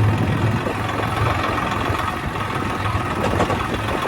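Farm tractor's diesel engine running steadily, a low hum with some rattle.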